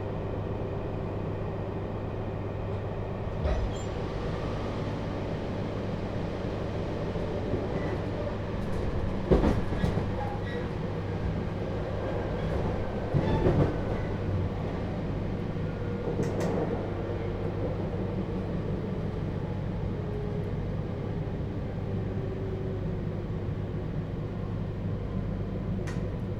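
Running noise inside a JR Hokkaido 721-series electric multiple unit motor car with a Toshiba GTO-VVVF inverter: a steady low rumble with faint, shifting inverter and motor tones. Wheels knock sharply over rail joints or points twice, about nine seconds in and again about thirteen seconds in.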